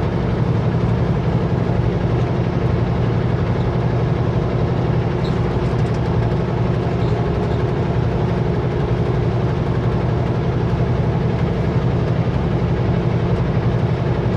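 Kenworth W900L semi truck's diesel engine and road noise running at a steady cruise, a constant low drone with no change in pitch or level.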